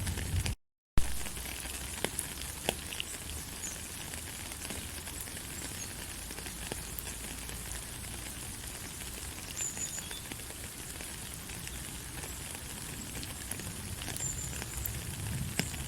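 Steady light rain falling, with scattered individual drops ticking. The sound cuts out completely for a split second near the start and comes back with a sharp click, an edit splice in the recording.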